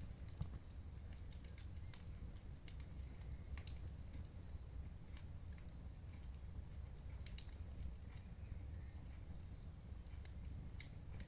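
Wood fire in a fireplace crackling: scattered sharp snaps and pops over a steady low rumble.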